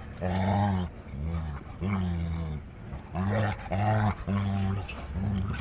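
A dog making a run of about seven short, low, grumbling vocalizations in quick succession.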